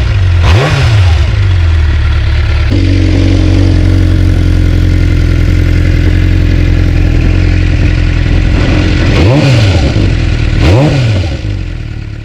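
2009 Suzuki GSX-R600's inline-four running through a newly fitted aftermarket slip-on muffler: idling, with a quick throttle blip about half a second in and two more near the end, the revs rising and dropping back each time. The sound fades out at the very end.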